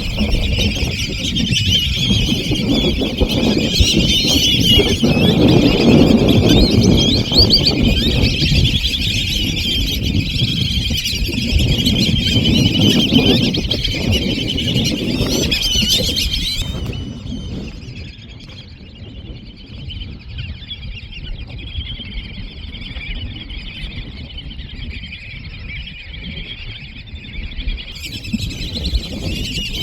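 A large flock of black-bellied whistling ducks calling all at once: a dense, loud chorus of overlapping high whistles. About two-thirds of the way through it drops to a fainter level and carries on.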